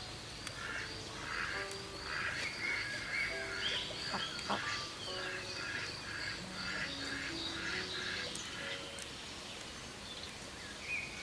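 Birds chirping and calling in quick repeated notes, with a high, rapid series of chirps running through, over soft background music.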